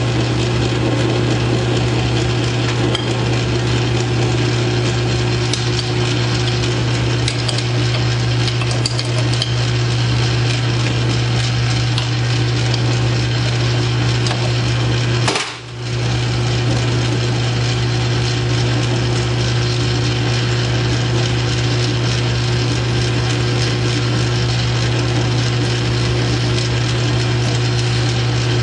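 South Bend 9-inch lathe running under power with a steady motor hum and cutting noise as a small pivot pin is turned. The sound breaks off briefly about halfway through and stops near the end.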